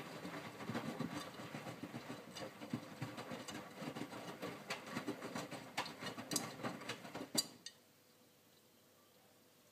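Miele W562 washing machine drum tumbling a load of clothes through water in the main wash, swishing with many small clicks, which stops abruptly about seven and a half seconds in, leaving a faint steady hum as the drum pauses.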